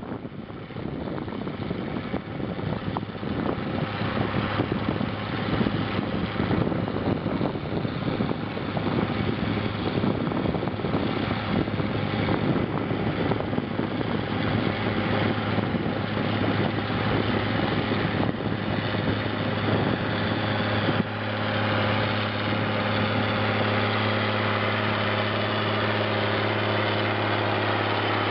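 Zetor 16145 tractor's diesel engine running steadily while working a plough. About 21 seconds in, the sound changes suddenly to a smoother, more even engine note.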